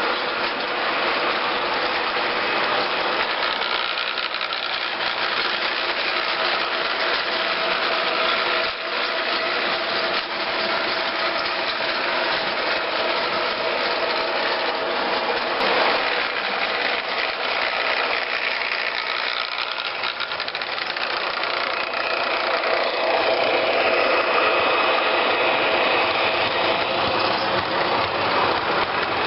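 Diesel locomotive engine running steadily as a train goes by, with a wide rumble and some faint steady tones.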